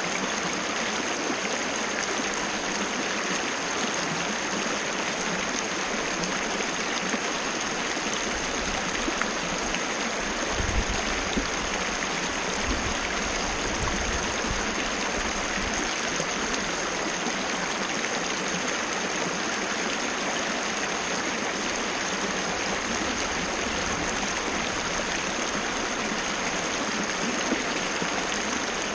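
Waterfall rushing steadily, an even wash of falling and splashing water, with a faint low rumble from about a third of the way in to about halfway through.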